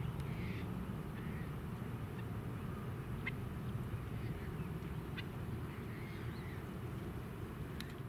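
Birds calling: short, scattered calls every second or so over a steady low background rumble, with a few brief sharp chips mixed in.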